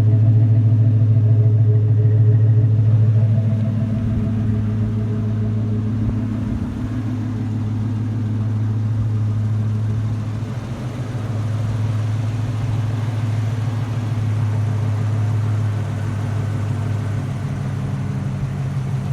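A GMC 2500 HD's 6.0-litre V8 idling steadily through Flowmaster Outlaw true dual exhaust, a low even rumble that gets a little quieter about four seconds in.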